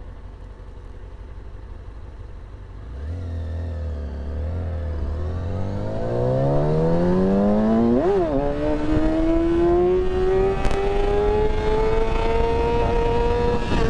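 Motorcycle engine pulling away hard from a standstill: it ticks over quietly, then about three seconds in the revs climb steadily under acceleration, flare and drop briefly at a gear change about eight seconds in, and climb again more slowly in the next gear.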